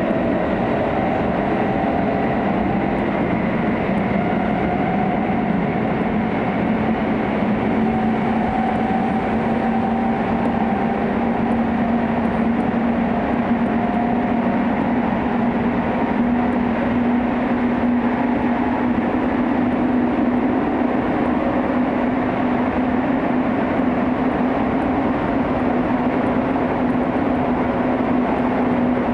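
Hokuso/Chiba New Town Railway 9000 series commuter train running, heard from inside the car: a steady rumble of wheels and running gear. A low motor hum rises slightly in pitch around the middle.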